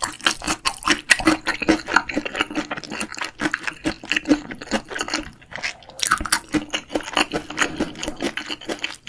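Close-miked chewing of crunchy fried food, a dense run of wet crackles and crunches, easing briefly a little past the middle before picking up again.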